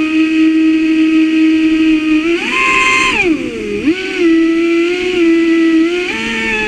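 Traxxas Spartan RC boat's brushless electric motor whining steadily. About two seconds in it rises sharply in pitch, then drops low and climbs back, stepping up again near the end as the throttle is worked.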